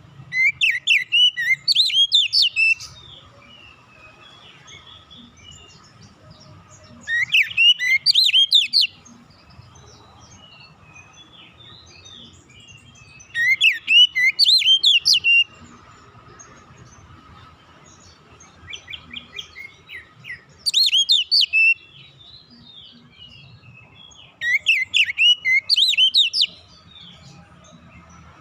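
Oriental magpie-robin (kacer) singing. It gives five loud phrases of quick rising and falling whistles, each about two seconds long and spaced a few seconds apart, with a softer run of short notes just before the fourth phrase.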